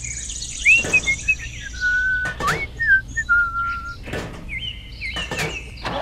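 Birds chirping with short whistled notes that rise and fall in pitch, two of them held steady for about half a second near the middle, together with a few sharp clicks.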